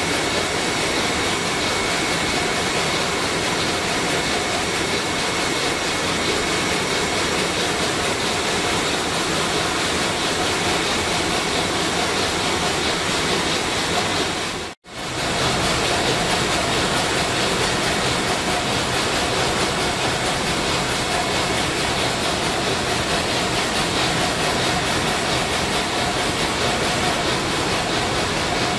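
Sulzer 12RTA96C twelve-cylinder two-stroke marine diesel main engine running at 70 rpm: loud, steady engine-room noise with a few faint steady whines. It cuts out for a moment about halfway, then carries on unchanged.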